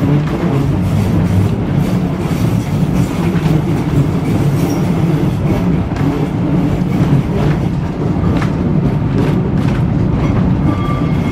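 Ex-Melbourne W2-class tram running along its track: a steady low rumble with clicking from the wheels over rail joints. A brief high tone sounds near the end.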